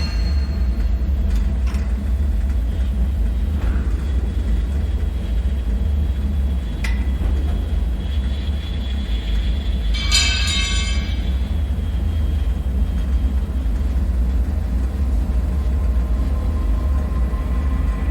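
Deep, steady low rumble of a bunker ambience drone, with occasional metallic pings and clanks ringing on top. The loudest is a ringing metallic sound about ten seconds in.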